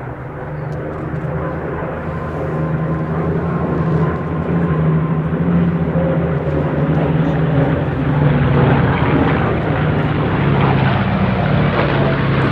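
Piston-engined World War II fighter flying past with a steady engine note, growing louder over the first few seconds and then holding.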